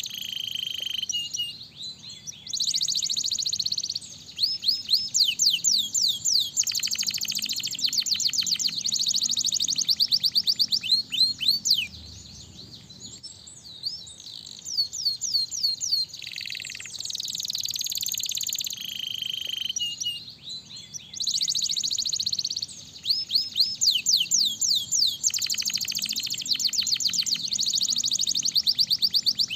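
Domestic canary singing: a long song of rapid rolling trills and fast runs of repeated high chirps, in phrases with a quieter lull about twelve seconds in.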